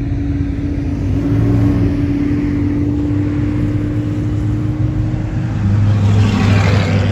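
Classic cars' engines running as they cruise slowly past, with a steady low hum. About six seconds in, a louder car passes close and its exhaust note swells, then eases off near the end.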